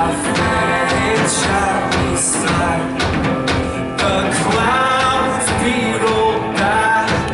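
Live worship band playing, with a steady drum beat under pitched melody lines from voices or a lead instrument.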